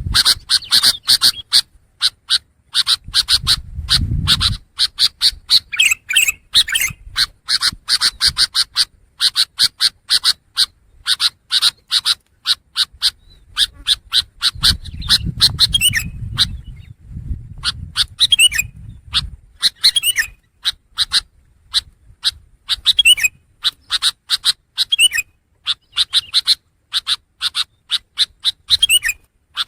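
Long-tailed shrike (pentet) singing: fast runs of sharp, chattering notes in bursts, with short rising whistled notes in the later part. A low rumble sounds briefly about four seconds in and again for a few seconds about halfway through.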